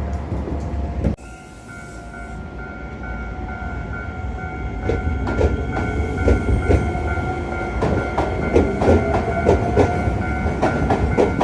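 Iyotetsu train running on the rails. A loud rumble cuts off abruptly about a second in. A quieter passage follows with a steady whine that grows louder, and from about halfway a run of sharp wheel clicks over the rail joints.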